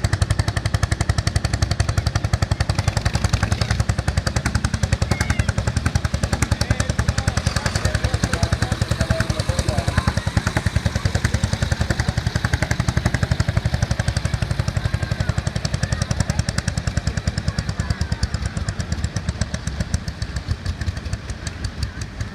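Tractor engine working hard during a tractor pull, its exhaust beating in a loud, fast, even rhythm. Near the end the beat weakens and turns uneven as the engine eases off.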